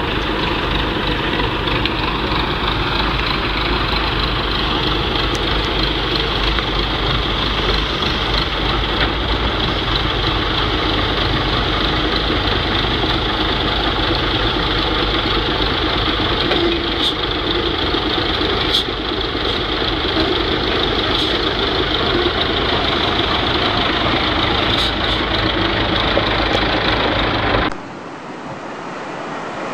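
A heavy vehicle's engine running steadily, loud and dense, with a few sharp clicks. Near the end the sound cuts abruptly to a quieter, duller vehicle sound.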